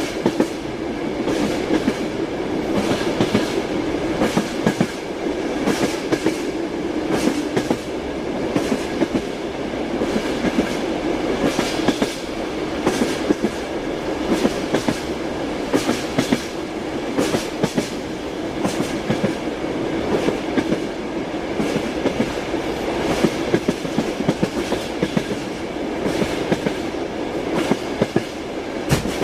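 Moving train: wheels clacking over rail joints in repeated knocks over a steady rolling rumble.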